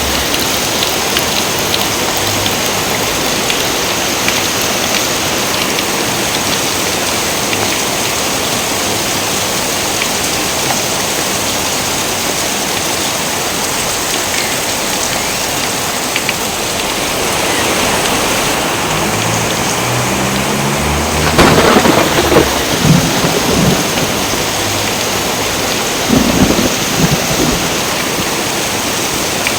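Steady heavy rain with thunder: a sharp thunderclap about two-thirds of the way in, rolling on into rumbles, and another rumble of thunder near the end.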